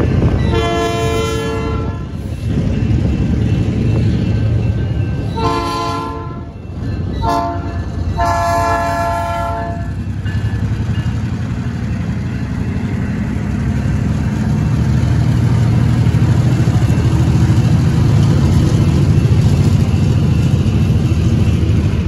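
Air horns of EMD SW1500 switcher locomotives sounding the grade-crossing signal: two long blasts, one short, one long. Then the low rumble of the locomotives' diesel engines, followed by covered hopper cars rolling over the crossing, growing louder toward the end.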